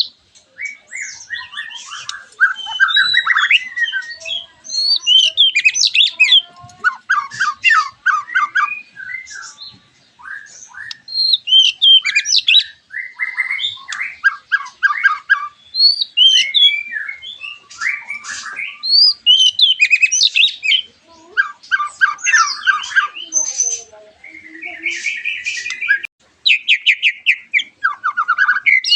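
White-rumped shama (murai batu) song: a continuous run of varied phrases, clear whistles that swoop up and down mixed with fast rattling trills, with only brief pauses between phrases.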